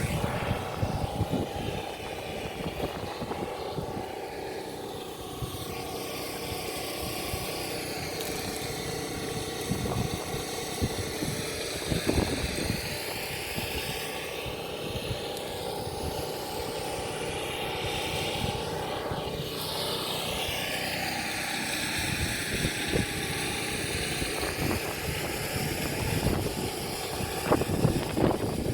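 Steady drone of a motor, with scattered light knocks and handling noise.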